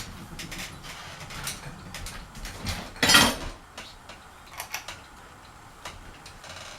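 Clicks and light rattling from handling a ceiling fan's pull-chain switch, with one louder clatter about three seconds in.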